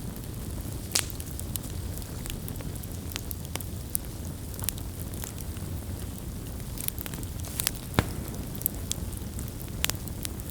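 Wood campfire burning: a steady low rumble of flames with scattered sharp pops and crackles, the loudest about a second in and at about eight seconds.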